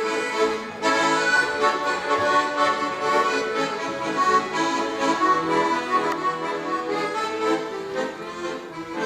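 Accordion playing an instrumental break between the verses of a comic song, with no singing.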